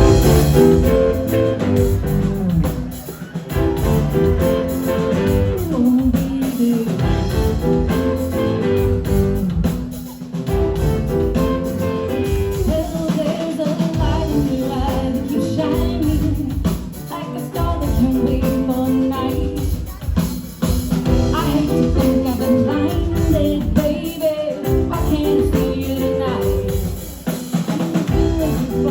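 Live rock band playing a shuffle groove, with drum kit and electric guitar in a repeating riff that recurs every few seconds.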